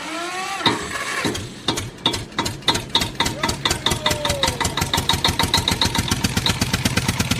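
A brief falling tone, then an engine starting: slow single knocks that speed up into a steady chugging run, like a tractor engine.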